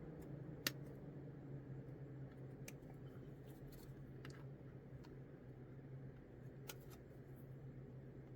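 Sprue cutters and plastic kit parts clicking as a part is clipped off the sprue and handled: one sharp click about half a second in, then a few fainter clicks, over a steady low hum.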